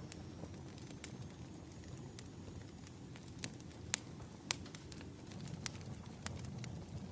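Burning firewood crackling: irregular sharp pops and snaps over a low steady rush.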